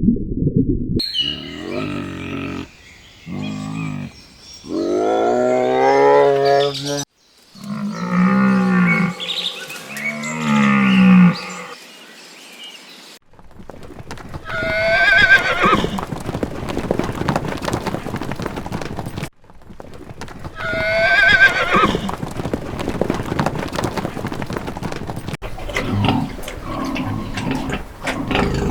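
A series of separate farm-animal recordings cut together: low drawn-out livestock calls like cattle mooing in the first half, then two high wavering calls like a horse whinnying, each over outdoor background noise.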